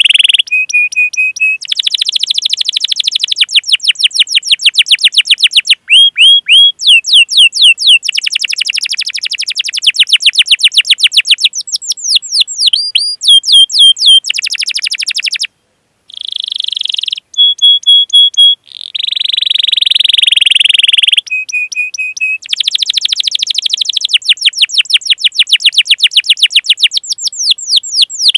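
Domestic canary singing a long, loud song of 'cuit cuit' calls and rolled trills: fast runs of repeated high chirps alternating with steady buzzing rolls, broken by two short pauses past the middle.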